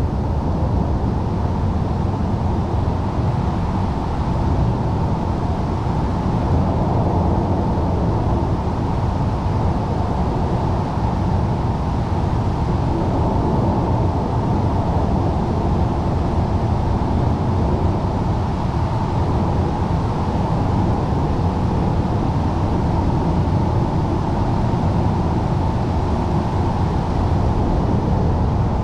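Storm wind, a steady low rumbling roar that does not let up.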